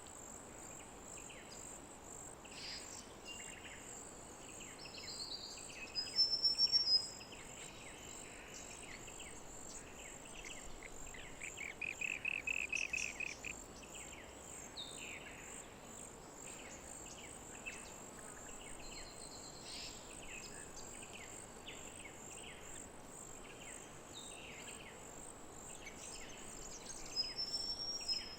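Small birds chirping and calling on and off, with a trilled run of quick notes about twelve seconds in and a louder rapid burst about six seconds in, over a steady high insect drone.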